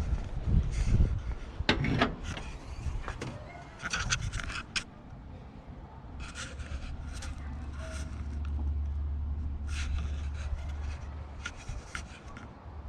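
Workshop handling noise: irregular sharp clicks and knocks with scraping and rubbing in between, over a low rumble in the middle of the stretch.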